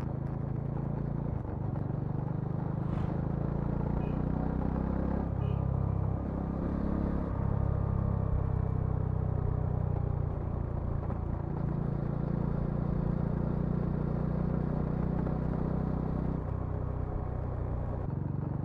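Bajaj Dominar 400's single-cylinder engine and exhaust while riding. Its note shifts several times as the throttle opens and closes and the gears change.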